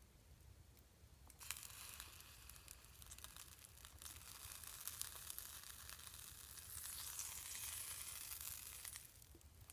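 Food sizzling in a mess kit frying pan over a campfire: a steady high hiss that comes in about a second and a half in and stops near the end.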